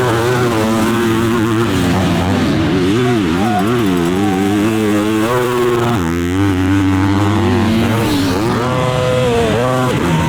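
Motocross bike engines racing, revving up and down again and again as the throttle opens and closes and the gears change.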